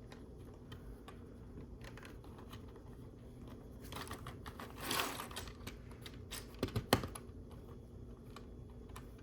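Plastic LEGO pieces clicking and rattling as they are handled and pressed together, with a rustling stretch around the middle and a quick run of sharp clicks a couple of seconds later.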